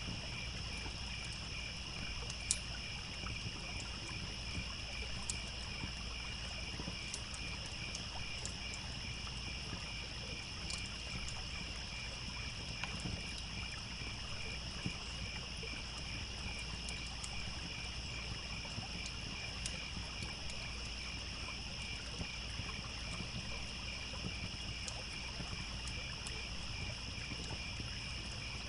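Crickets chirping in a steady, evenly pulsing chorus, with scattered sharp pops of a crackling campfire, the loudest about two and a half seconds in, over a low steady rush.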